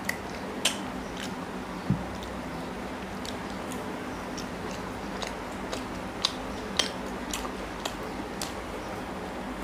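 Close-miked chewing of paratha and chicken curry, with irregular sharp mouth clicks and smacks over a steady low background hum.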